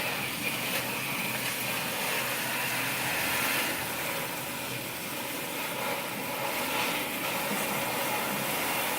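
Water running steadily from a salon sprayer, rinsing perm solution out of permed hair under a rinsing cap.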